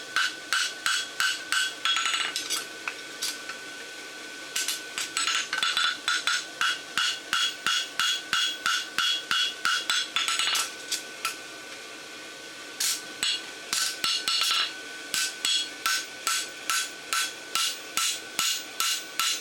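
Hand hammer striking a hot steel bar shoe on an anvil, about three ringing blows a second, in runs broken by two short pauses: forging and scarfing the bar ends for a forge weld.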